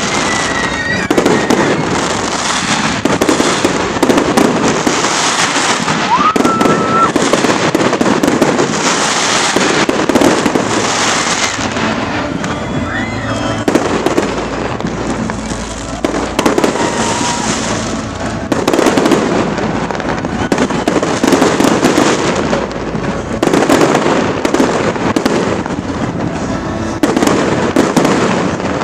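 Fireworks display: a continuous barrage of bangs and crackling from bursting shells, with a few short whistling tones in between.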